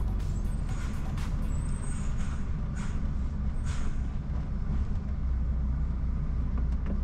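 Articulated lorry's diesel engine running low and steady, heard from inside the cab, with a few short hisses of air from the air brakes.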